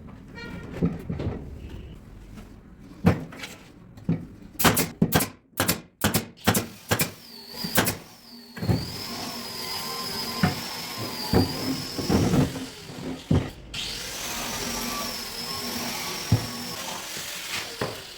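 Woodworking tools on solid wood: a quick series of knocks, then a power tool with a high whine running in two stretches with a short break between them.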